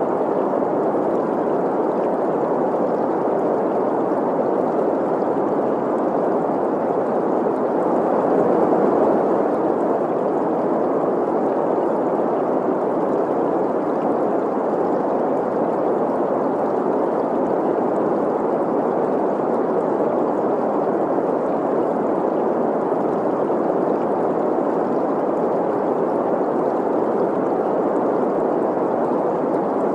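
Green noise, a steady synthetic hiss centred on the middle pitches, blended with the sound of a flowing stream.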